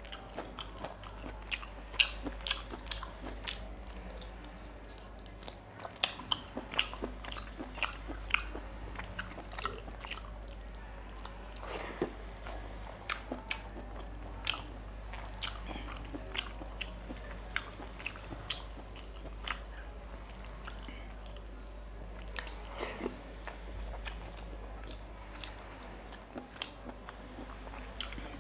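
A person chewing a mouthful of rice and mutton liver curry close to the microphone, with many irregular sharp mouth clicks throughout, over a steady low hum.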